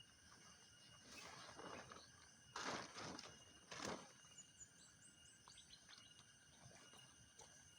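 Quiet night outdoor ambience: faint steady high tones, three soft rustling bursts in the first half, and a quick run of high chirps a little past the middle.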